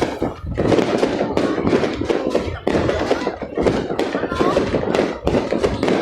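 Fireworks going off in quick, irregular bangs, with a crowd's voices underneath.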